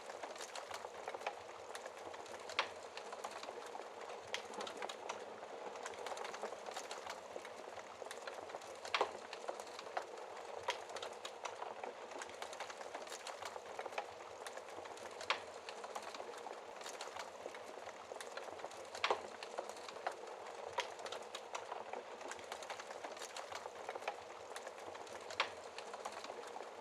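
Wood fire crackling in a fireplace: a steady, dense crackle with a sharp louder pop every few seconds, about five in all.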